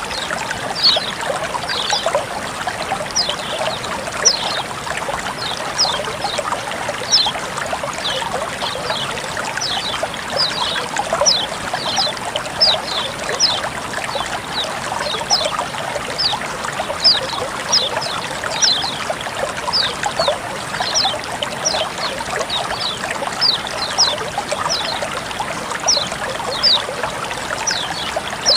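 Water trickling and flowing steadily. Over it runs a continuous series of short, high, falling notes, about two a second.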